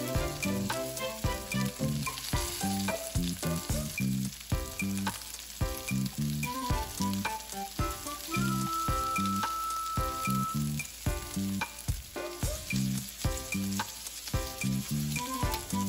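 Seasoned lamb chops frying in oil in a skillet, a steady sizzle, under background music with a regular beat.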